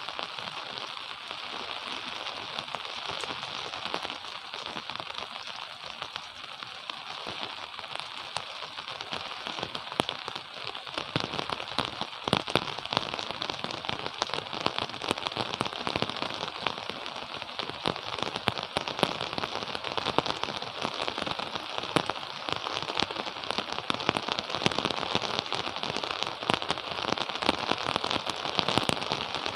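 Gentle rain falling steadily, with many sharp individual drop impacts crackling through it. The drops become denser and louder about a third of the way in.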